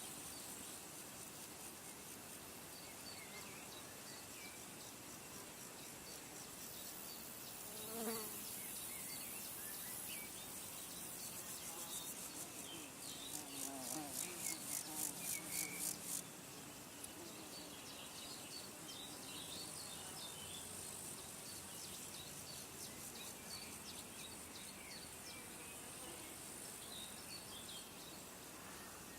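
Outdoor insects buzzing and trilling steadily, with scattered short bird chirps. Around the middle a rapid pulsing buzz, about four pulses a second, rises for a few seconds and is the loudest part.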